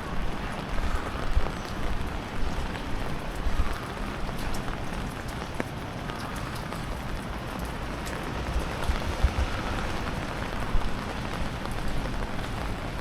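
Steady rain falling on a city street: an even hiss with scattered small drop ticks, over an uneven low rumble.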